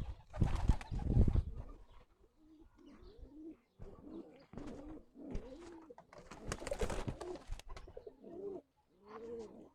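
Pigeons cooing, a run of short, low, rising-and-falling coos repeated over several seconds. A couple of loud muffled thumps come in the first two seconds.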